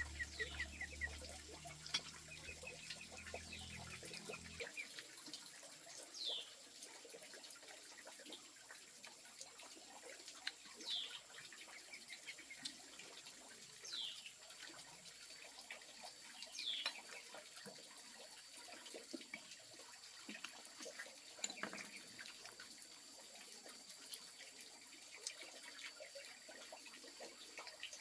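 Faint outdoor ambience with birds calling: a few short, falling chirps every few seconds over a steady soft hiss.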